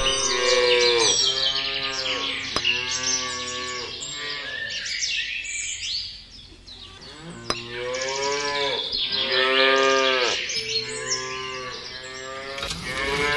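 Cattle mooing over and over, a series of long drawn-out calls with a short lull about halfway through.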